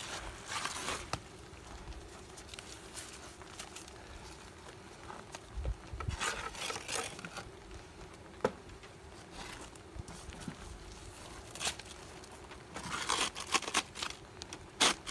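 Honeybees buzzing as a faint steady hum, with several short bouts of rustling and scraping as hive boxes and parts are handled.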